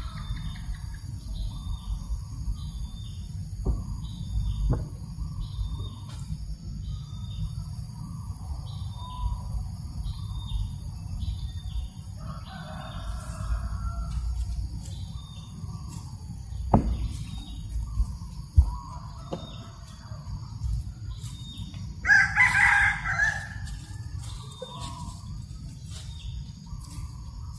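A rooster crows once, loudly, about 22 seconds in, with other chickens calling now and then. Under it runs a steady low wind rumble and a short high chirp repeating less than once a second.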